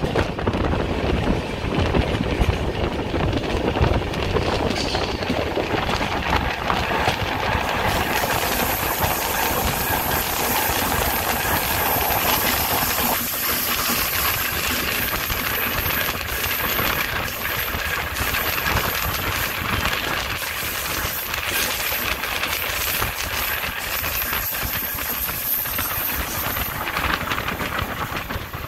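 Passenger train running at speed, heard from an open coach door: a steady rumble and clatter of the wheels on the rails, with rushing air.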